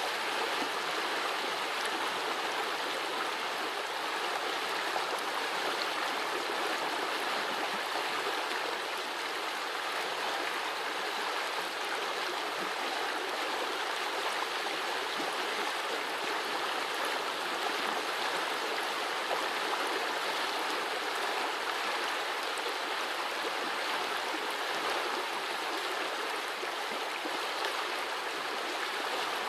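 A small forest brook running and gurgling over its bed in a steady, even rush.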